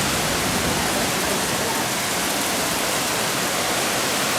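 Steady, even hiss of a heavy downpour mixed with rushing floodwater.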